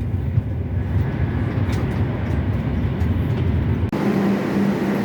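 Trenitalia passenger train running, heard from inside the carriage as a steady low rumble. About four seconds in the sound changes abruptly to a brighter hiss with a steady hum.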